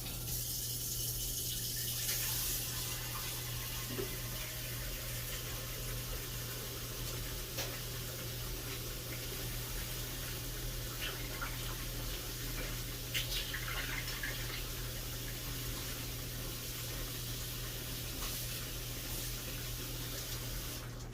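Kitchen tap running steadily into a sink while a meat flavor injector and other utensils are rinsed under it, with a few light clinks.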